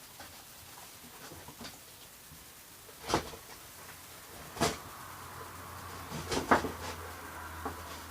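Plastic container being handled and cut at its edges: a handful of sharp plastic clicks and knocks, the loudest about six and a half seconds in, with a faint steady hum from about five seconds in.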